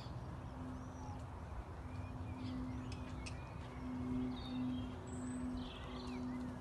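Birds chirping in short scattered calls over a steady low rumble of outdoor background noise.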